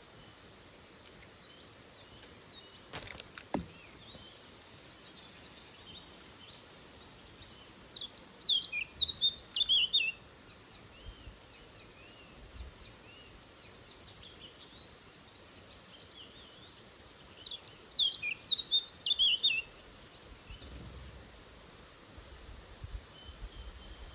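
A small woodland songbird sings the same short phrase twice, about nine seconds apart: a quick run of high notes that falls in pitch. There is a single sharp knock about three seconds in, over a faint steady outdoor hiss.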